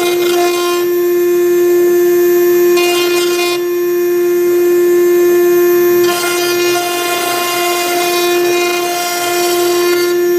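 Spindle of a 6090 CNC router whining at a steady pitch while a V-bit engraves MDF, with a high cutting hiss that comes and goes as the machine moves between strokes.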